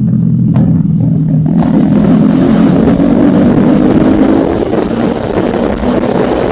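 Motorcycle engine pulling under acceleration while riding, its note climbing steadily for a few seconds and then easing back about two-thirds of the way through, with a rush of wind and road noise growing as it speeds up.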